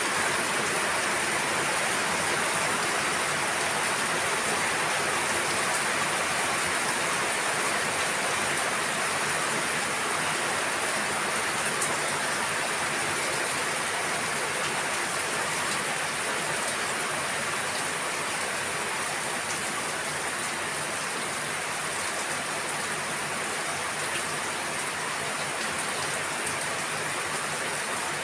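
Rain falling steadily: an even hiss with the odd separate drop ticking through it.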